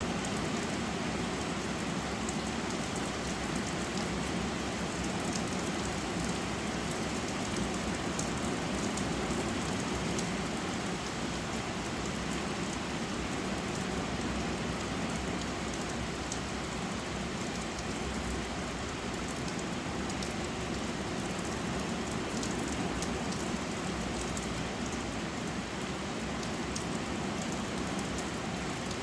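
Steady rain falling, a constant patter of drops on a surface with fine individual drop ticks.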